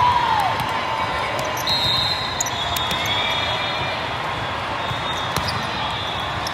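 A volleyball bouncing and striking a hard gym floor, with scattered sharp knocks and short high squeaks over a steady background of crowd noise.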